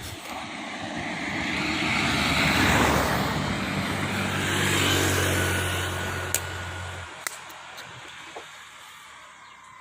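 A road vehicle passing close by: its engine and tyre noise swell and then fade away, and the engine's low hum drops out about seven seconds in.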